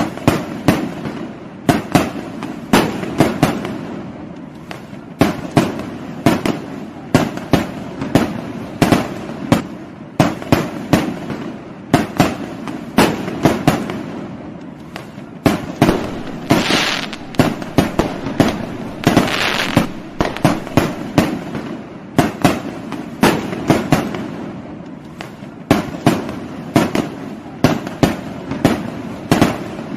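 Fireworks going off: a rapid, irregular run of sharp bangs, several a second in clusters, with two brief stretches of hissing crackle about halfway through.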